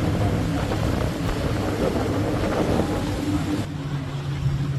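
Tour boat motor running with a steady low hum under a broad rush of wind and water. Just before four seconds in the rush thins and the motor's hum comes to the fore.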